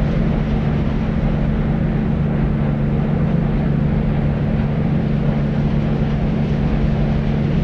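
Steady deep white noise: an unbroken low, rumbling hiss, heaviest in the bass and soft in the treble, with no change in level or pattern.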